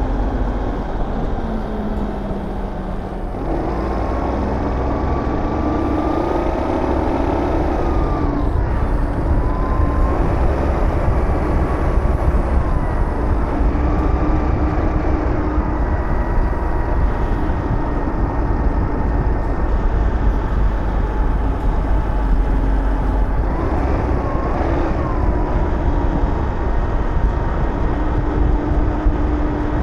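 Aprilia SR GT 200 scooter's single-cylinder engine running on the move, with a steady low wind rumble on the microphone. The engine note rises about three seconds in, then dips and climbs again a few times as the throttle eases and opens.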